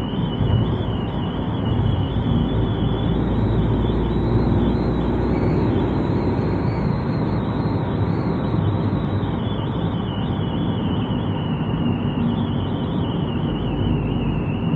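Wind whistling off a car's roof rails, heard inside the cabin while driving: a steady high whistle that wavers slightly in pitch over road and wind rumble. The owner puts the whistle down to the gap under the roof rail left open without its rubber seal strip.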